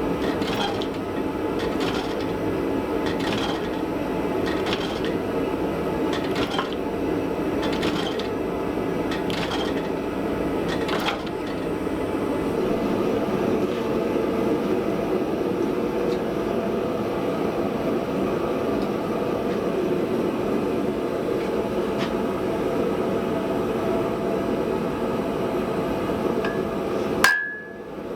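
Forge running with a steady roar and a faint tick about every second and a half for the first ten seconds or so. Near the end the roar drops away and a hammer strikes the anvil once with a clear ring.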